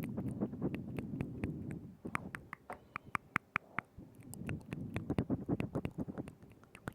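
ASMR mouth sounds at zero distance from a binaural microphone: a rapid, uneven run of wet tongue and lip clicks, several a second. A soft low rumble lies under the clicks for the first two seconds and again around five to six seconds in.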